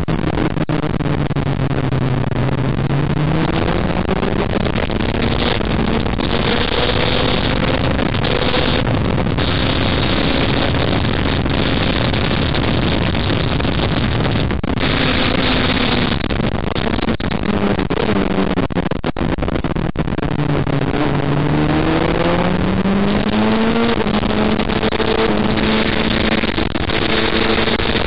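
Car engine running hard around a race track over steady wind and road noise. Its pitch drops twice, about two seconds in and again around twenty seconds in, and each time climbs back up as the car accelerates.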